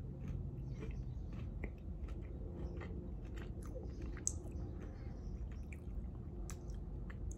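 A person chewing a bite of a milk-chocolate Cocoa Pebbles candy bar: faint, irregular crunches of the cereal pieces, one a little sharper about four seconds in.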